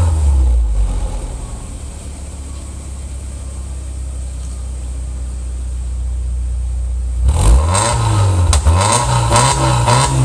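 Subaru XV's flat-four boxer engine heard at the exhaust: revs falling back to a steady idle at the start, then from about seven seconds in a run of quick throttle blips, each rising and dropping straight back.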